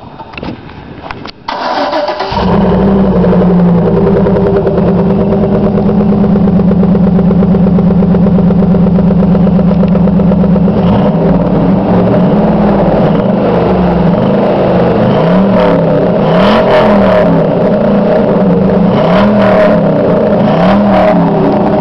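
2004 GMC Sierra 1500's 4.8-litre V8 through a true dual exhaust: the starter cranks briefly and the engine catches about two seconds in, then idles steadily. From about halfway it is blipped in a series of short revs, about one a second.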